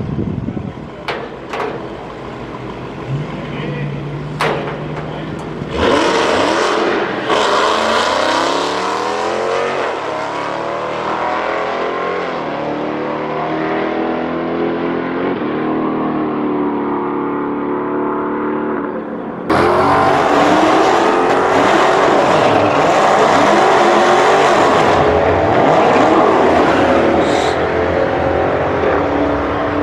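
Cars launching down a drag strip: engines revving hard and climbing in pitch through several gear changes, thinning out as they pull away. About two-thirds of the way through, the sound cuts suddenly to another loud run of engine noise.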